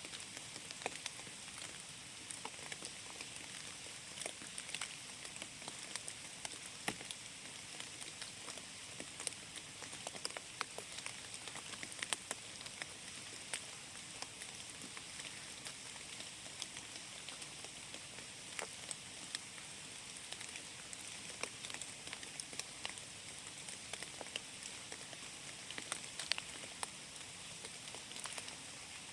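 Rain falling in a forest: a steady hiss with many scattered, sharp drips of individual drops landing on leaves and the ground.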